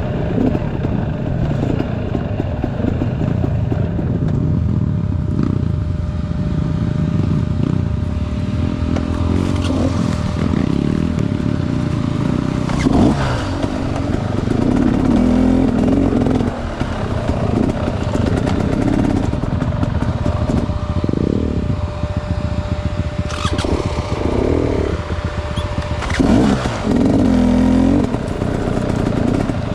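Enduro dirt bike engine running on an off-road trail, the throttle rising and falling continuously. A few sharp knocks or clatters are heard along the way.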